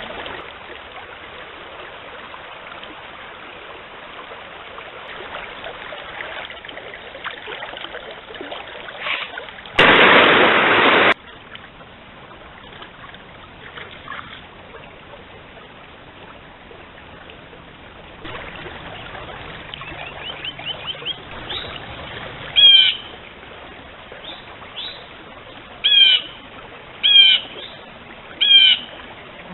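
Forest stream running with faint bird calls, broken about ten seconds in by a loud rush of noise lasting about a second and a half that stops abruptly. From a little past twenty seconds a bird calls repeatedly, one short falling call every second or so.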